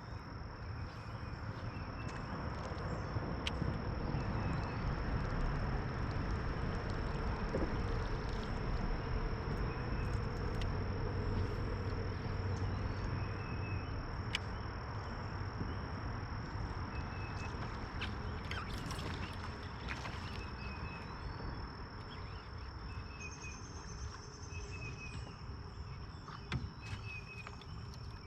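Steady high-pitched insect buzz, with short chirps here and there, over a low rumble of wind and water noise.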